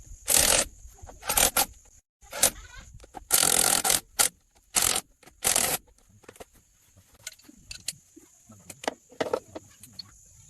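A series of about six loud scraping strokes, then lighter scattered clicks and taps.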